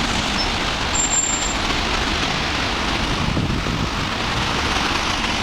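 Steady traffic noise from cars, buses and lorries going round a busy roundabout. A brief high squeal comes about a second in.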